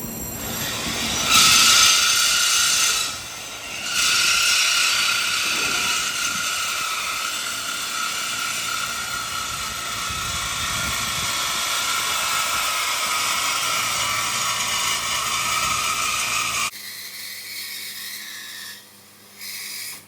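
A power cutting tool screeches as it cuts through the car's steel exhaust pipe to remove a mid muffler. The cut is loud and steady, pauses briefly about three seconds in, and stops abruptly near the end.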